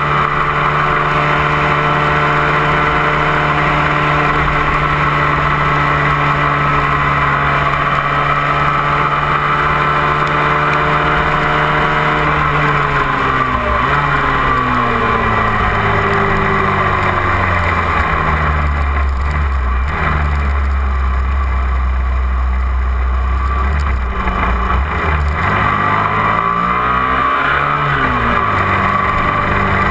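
Engine of a 250 cc twin-cylinder sport motorcycle, heard from a camera mounted on the bike over a steady rush of wind. It holds steady at cruising revs, then the revs drop a little before halfway as the bike slows in traffic. It runs lower with a deeper rumble for several seconds, and near the end the revs rise and fall again.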